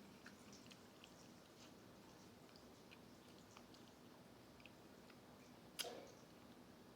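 Faint close-up mouth sounds of someone chewing fried chicken: soft scattered wet clicks and smacks over a low steady hum, with one louder sharp click about six seconds in.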